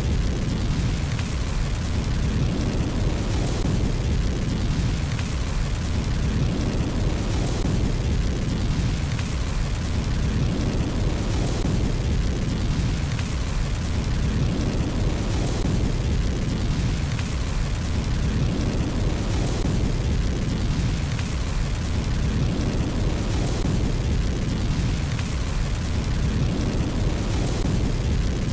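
Fireplace fire burning with a steady low rumble, and a faint hissing swell high up every few seconds.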